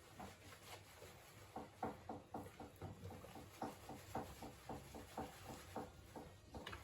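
A small Papillon–Corgi mix dog whimpering faintly in a run of short, high squeaks, about four a second, starting after a second and a half.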